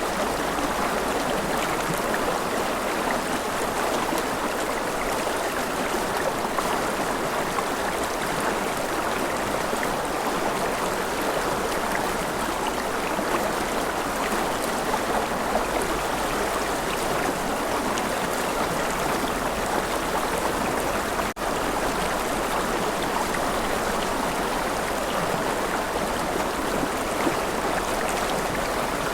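River flowing steadily: a continuous rush of running water, strongest in the middle range, with a split-second dropout about two-thirds of the way through.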